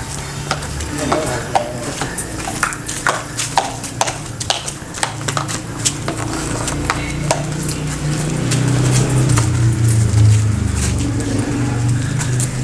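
Car driving along a rough road: a low engine and road hum that swells about eight seconds in, with many irregular clicks and knocks from rattles and bumps.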